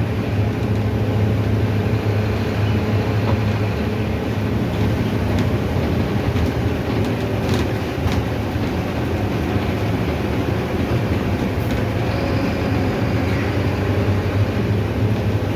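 Mercedes-Benz OF-1519 city bus under way: its diesel engine runs with a steady low drone, mixed with road noise and a few light rattles and clicks.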